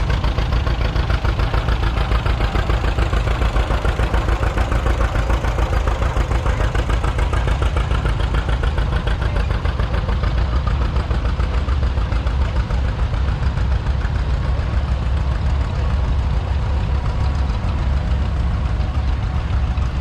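Farmall H tractor's four-cylinder engine running steadily with an even, rapid firing pulse.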